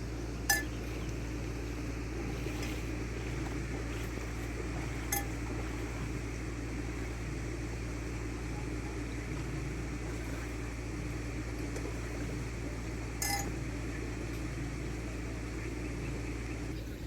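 Three short clinks, like dishes or glass knocking together, several seconds apart, over a steady low hum.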